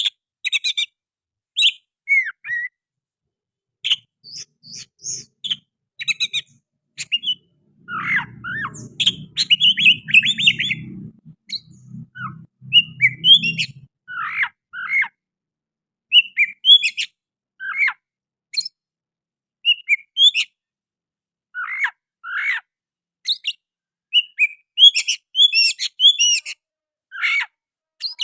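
Oriental magpie-robin singing in rapid bursts of varied chirps, sweeps and whistled notes with short pauses between them. Its song is laced with mimicked sooty-headed bulbul phrases.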